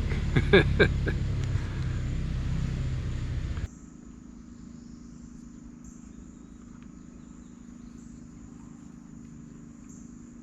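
Gator utility vehicle engine running as it drives through the campground, with a few short, louder sounds about half a second in; it cuts off abruptly after about three and a half seconds. Crickets and other insects then chirp steadily at a much lower level.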